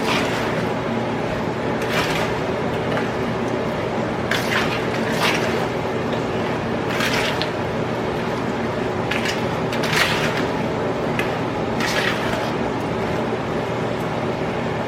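Chicken wings being mixed by hand with their seasonings: soft, wet squishing sounds coming irregularly, every second or two, over a steady low hum.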